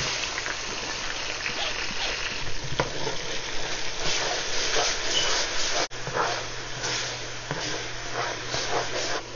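Crushed tomatoes and onions sizzling and crackling in hot canola oil in a pot, stirred with a slotted spatula. The sound cuts out for an instant about six seconds in.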